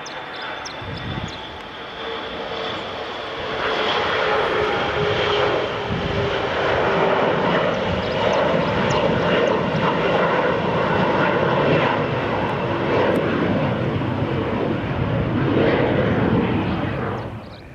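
Airliner engines passing close at high power, building over the first few seconds into a loud, steady roar that cuts off abruptly near the end.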